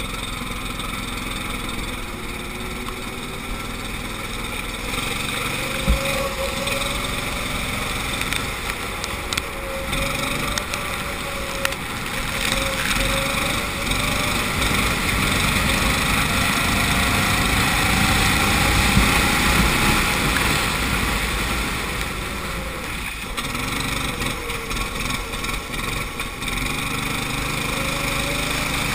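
Go-kart engine heard onboard, its pitch climbing as it accelerates and falling away again into the corners, over and over, with a steady rushing noise underneath on a wet track.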